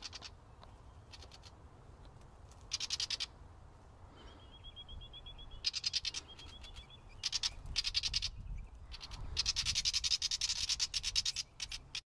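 Small birds chattering in several bursts of fast, dry clicking notes, the longest near the end, with a faint high trill between them about halfway through. Low wind rumble underneath.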